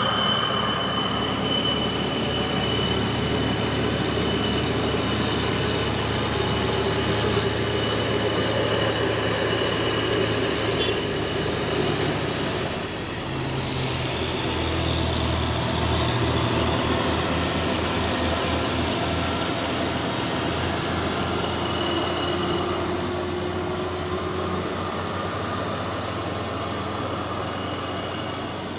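Heavy 6x4 truck's diesel engine running steadily with a dense, continuous mechanical noise. A thin high whine sits over it for the first ten seconds or so, and the sound dips briefly about halfway through.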